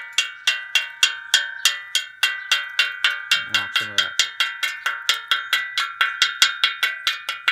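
A hammer beating steadily on a steel exhaust pipe, about three and a half blows a second, each strike leaving the pipe ringing at the same pitch: knocking rust off the metal.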